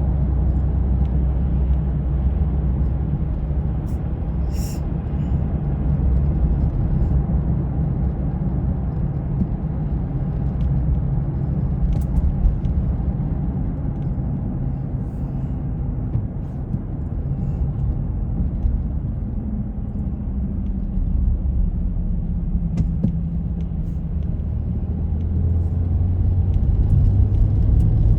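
Steady low rumble of a car driving, engine and road noise running evenly, with a few faint short clicks.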